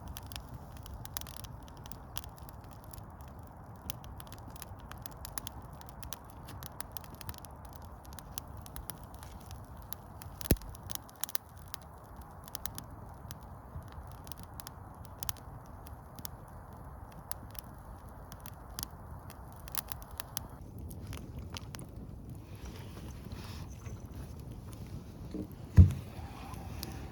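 Faint crackling with scattered clicks over a low rumble, broken by one sharp knock about ten seconds in. Near the end comes a single deep drum beat, the first stroke of a frame drum.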